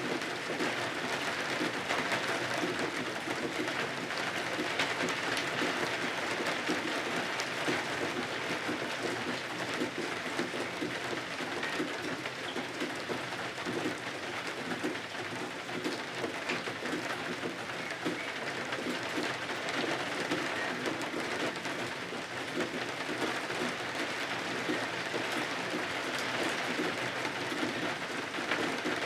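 Steady rain pattering against windows, a dense even hiss of many small drop ticks.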